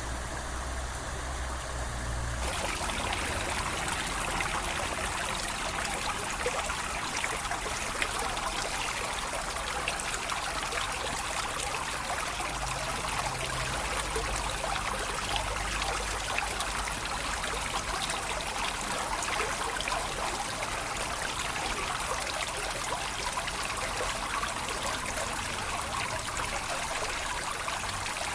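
Water of a small stream trickling and splashing steadily.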